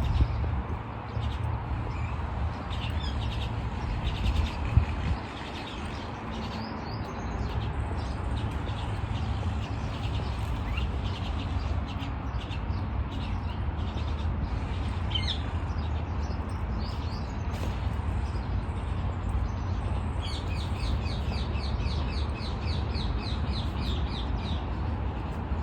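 Birds calling and chirping in scattered high notes, with a quick run of repeated chirps, about five a second, starting about 20 seconds in. A steady low rumble lies underneath, and there is one brief knock about five seconds in.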